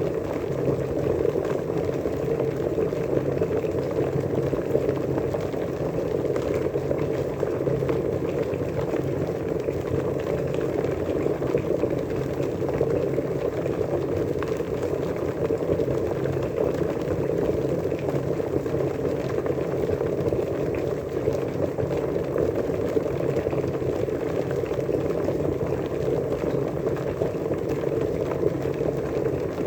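Water boiling, a steady, even bubbling that keeps up without a break.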